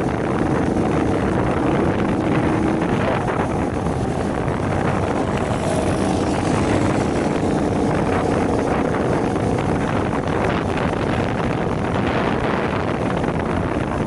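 Shineray 50cc moped engine running steadily while riding, mostly buried under heavy wind noise on the microphone.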